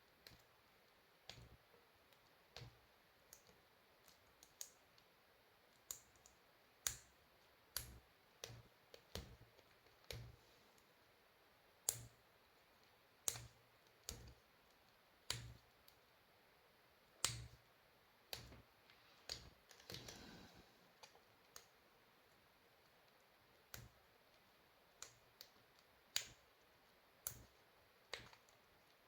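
Scattered small clicks and taps of hands handling parts on a workbench, irregular and a second or so apart, with a brief rustle about twenty seconds in; otherwise near silence.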